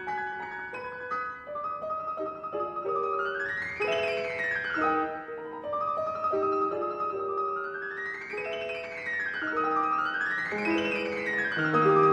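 Solo classical piano music: fast virtuoso runs sweep up and down the keyboard again and again, around a repeated high note.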